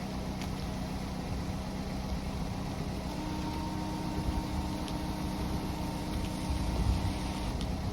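Chevy's engine idling as it warms up after a cold start: a steady low hum. A second, higher steady tone joins about three seconds in and stops shortly before the end.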